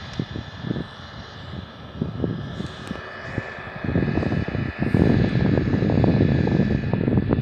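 Aircraft engine running: a steady high whine over a low rumble that grows louder about four seconds in.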